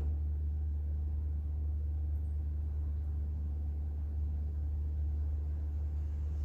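Steady low rumble, unchanging throughout.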